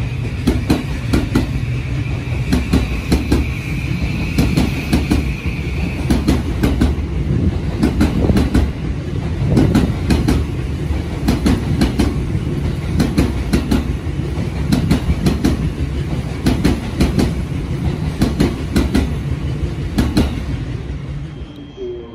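Electric commuter train running past along a station platform: a steady low rumble with wheels clacking over rail joints, many clacks in quick succession as the cars go by. A high steady whine sounds over it for the first few seconds.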